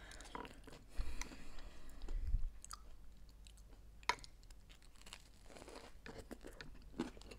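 Close-miked chewing and crunching of a toasted grilled sandwich, with scattered crisp crackles, a sharp click about four seconds in, and a crunchy bite near the end.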